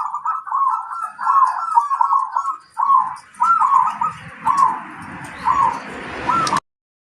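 Zebra dove (perkutut) cooing: a run of short, arched, fluty notes, close together at first and then more spaced out, stopping abruptly near the end.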